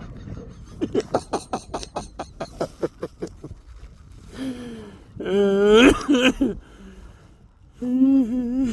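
Goose-like honking calls: a fast run of short honks, then two long drawn-out, wavering honks.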